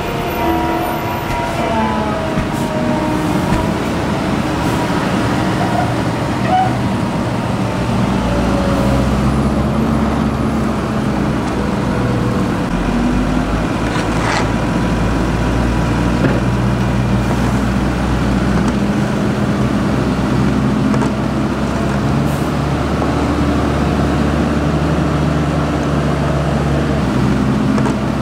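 Large diesel farm tractor engines running steadily, the engine note shifting up and down.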